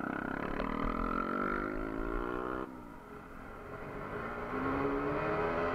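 Bajaj Pulsar single-cylinder motorcycle engine accelerating hard, its pitch climbing steeply for over two seconds. About halfway the sound drops sharply, then the engine pulls again and rises near the end.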